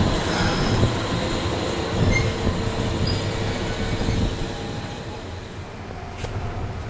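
Kintetsu electric train running along the station track: a loud wheel-and-rail rumble with faint squeal tones from the wheels. It fades away over the last couple of seconds.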